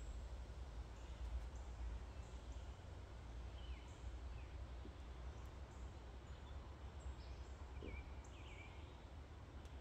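Quiet outdoor backyard ambience: a few faint, short bird chirps over a steady low rumble.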